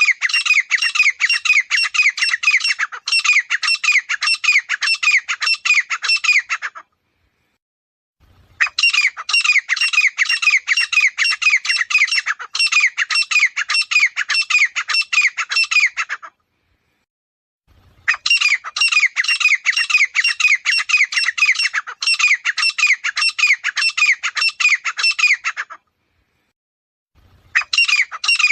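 Grey francolin calling: bouts of rapid, harsh, evenly repeated notes, each bout lasting about seven and a half seconds and separated by short silences of about a second and a half, three times over.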